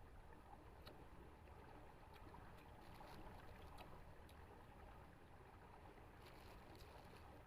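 Near silence: a faint low outdoor rumble, with a few soft, brief clicks scattered through.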